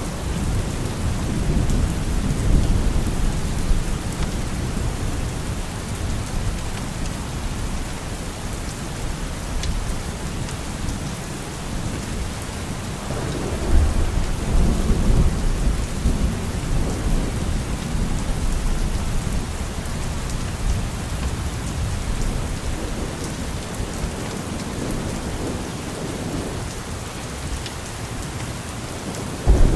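Steady rain with rolling thunder. Deep rumbles swell about halfway through, and a loud new rumble breaks in suddenly right at the end.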